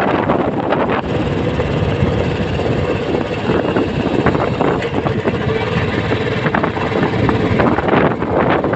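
Royal Enfield Classic 350's 349 cc single-cylinder engine and exhaust running steadily while the motorcycle is ridden, with wind buffeting the microphone.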